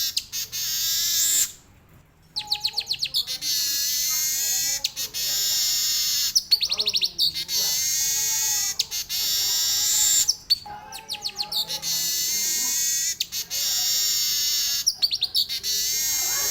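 Weaver (manyar) singing a long, rolling song laced with canary-like phrases: high, continuous warbling and trills with quick rattling note series, broken by short pauses, the longest about two seconds in.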